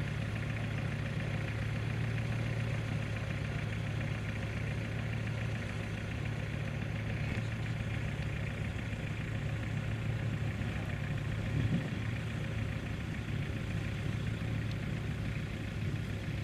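Off-road vehicle engines idling: a steady low hum.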